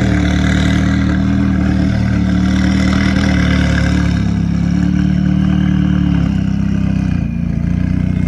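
A performance car's engine idling loud and steady, with a deep note that sounds "nasty"; the sound drops briefly about seven seconds in.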